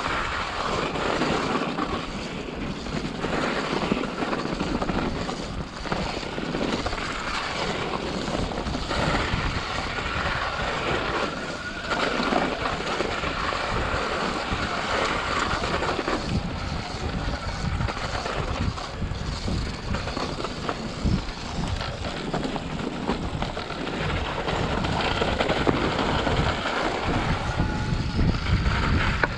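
Wind rushing over the microphone, mixed with the running and road noise of a moving vehicle, steady throughout.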